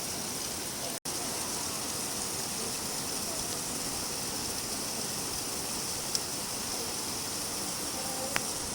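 Steady rain falling, an even hiss with no let-up. It cuts out for an instant about a second in, and a couple of faint ticks stand out near the end.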